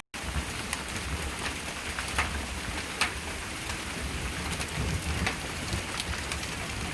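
Steady rain pouring down, with scattered sharp taps of drops striking nearby surfaces.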